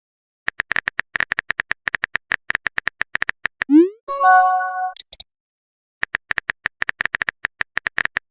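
Messaging-app sound effects: a quick run of phone keyboard taps, then a rising swoosh as the message is sent and a short chime. After a pause of about a second, the taps start again.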